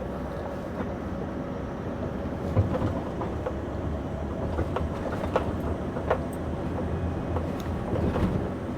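A Scania V8 diesel engine pulling slowly at low revs up a climb, hauling an 80-tonne low loader, heard from inside the cab as a steady low drone. Scattered clicks and knocks rattle over it.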